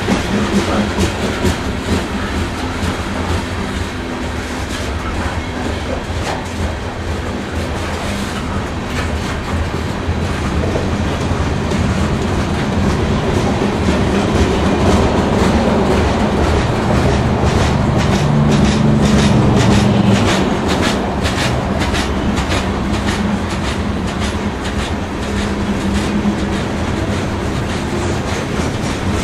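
Steel wheels of coal gondolas on a Canadian Pacific coal train rolling past, a steady rumble with clickety-clack over the rail joints. A quicker run of sharp clicks comes through in the second half.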